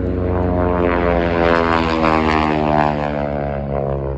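Propeller airplane making a close pass: the engine and propeller drone swells to its loudest in the middle and falls steadily in pitch as it goes by.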